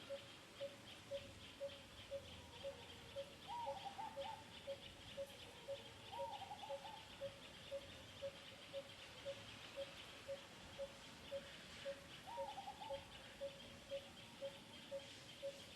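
Animal calls: a single low piping note repeats steadily about twice a second over a high pulsing hum. Three short wavering calls that drop in pitch come about four, six and twelve seconds in.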